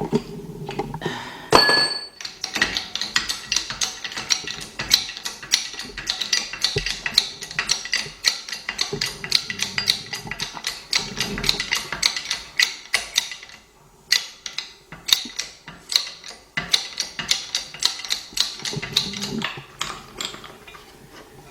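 Jack on a small shop press being worked to force a punch against a ring in a carburetor part, giving a long run of rapid metallic clicks with a short pause past the middle. A sharp metallic ring sounds about two seconds in.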